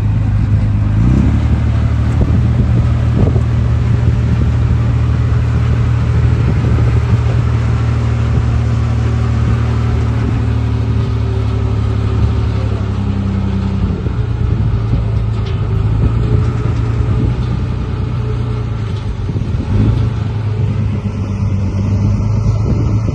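Heavy diesel engine of an earthmoving machine running steadily under load. Its note shifts slightly about a second in and again around thirteen to fourteen seconds in.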